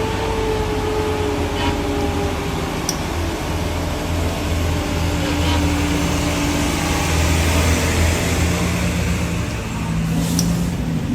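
Heavy truck's diesel engine running under load at low revs on a steep climb: a steady low drone, with a higher tone that slides down over the first few seconds.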